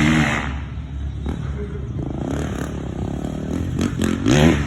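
Motocross motorcycle engines running, with revs rising in pitch at the start and a bike climbing and then falling in pitch near the end, over a steady low drone of engines.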